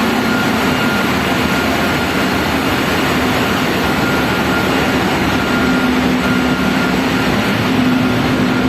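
Large engine-room machinery running: a loud, steady noise with a constant low hum and a fainter whine above it.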